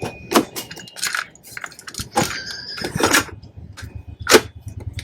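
Sharp clicks and knocks of switches and hands working the old radio-cassette recorder, the loudest a little after four seconds in. From about three seconds in, a low, steady hum starts underneath.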